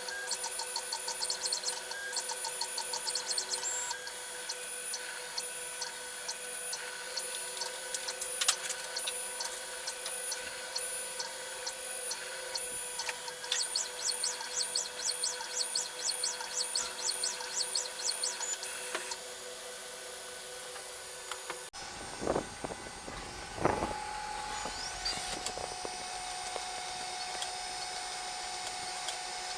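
Desktop CNC engraving router running, its motors whining with high tones that rise and fall quickly as the machine moves. About 22 seconds in the sound changes abruptly to a steadier single tone, with a couple of brief knocks.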